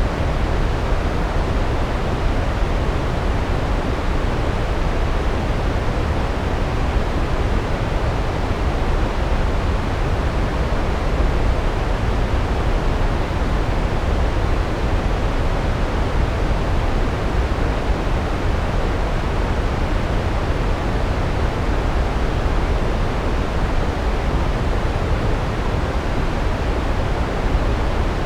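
Large waterfall: a steady, loud rush of falling water, heaviest in the low rumble, without change.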